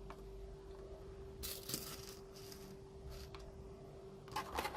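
Faint handling sounds over a steady faint hum: a brief rustle about a second and a half in and a few light clicks near the end.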